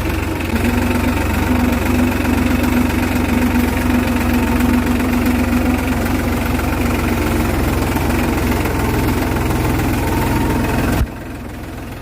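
New Holland tractor's diesel engine running steadily, with a held hum through the first half. About a second before the end the sound drops suddenly and becomes quieter.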